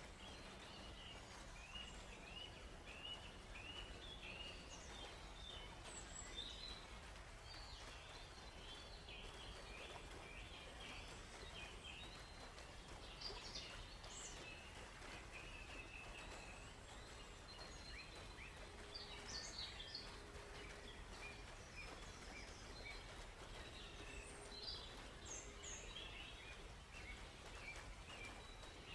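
Several forest songbirds chirping and calling, faintly, over a steady soft background hiss. Through the first ten seconds one bird repeats a short chirp over and over, about two a second; after that, scattered higher calls come from other birds.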